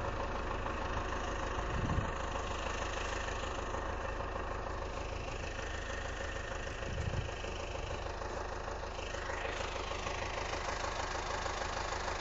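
An engine running steadily at idle, with a brief low thump about two seconds in and again about seven seconds in.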